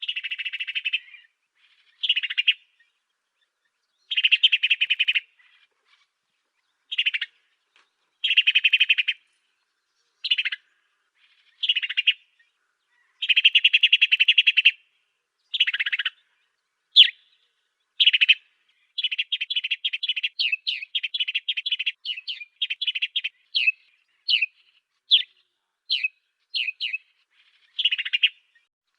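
African sparrow song, as used for a songbird-training (masteran) recording. It comes as short phrases of rapid, rattling chirps a second or so long, separated by brief pauses. About two-thirds of the way through it changes to a quicker run of short separate chirps.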